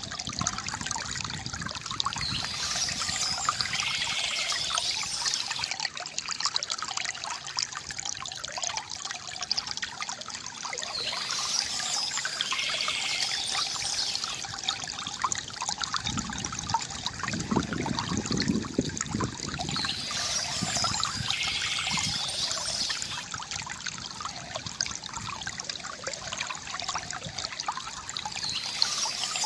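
Bamboo fountain: water steadily trickling and pouring into a basin. A deeper gurgling surge comes a little past the middle, and a brighter high sound returns about every nine seconds.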